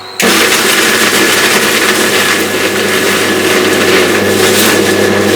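Electric mixer grinder switched on abruptly and running steadily at full speed with a motor hum and whirring, grinding raw chicken with herbs into a coarse paste.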